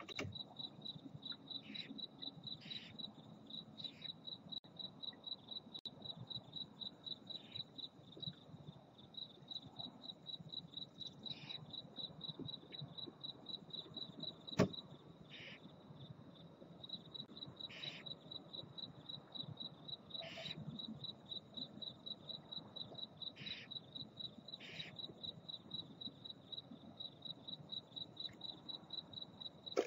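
Cricket chirping, a steady, rapid, high-pitched pulsing trill, with short hiss-like bursts every few seconds and a single sharp click about halfway through.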